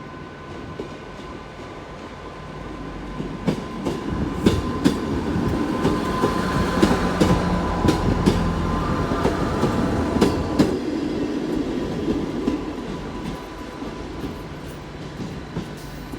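Class 158 diesel multiple unit departing and passing close by, its diesel engines running under power and its wheels clicking over rail joints. It swells a few seconds in, is loudest in the middle, then fades away.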